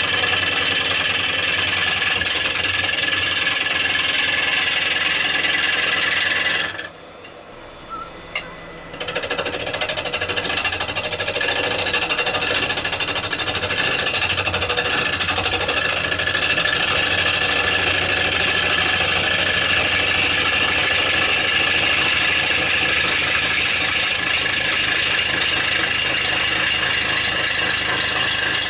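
Wood lathe spinning a rowan bowl blank while a bowl gouge cuts it, a steady machine noise with a high ringing tone. About seven seconds in the sound drops away abruptly for roughly two seconds, then comes back and builds up again.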